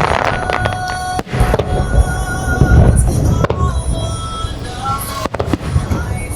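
Fireworks shells bursting in a dense barrage with deep booms and sharp cracks, mixed with music played over loudspeakers for a music-synchronised starmine.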